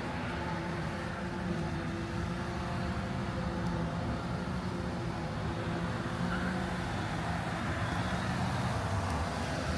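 Steady low hum of a Chevy Silverado 1500 Trail Boss's 6.2-litre V8 idling, heard from inside the cab.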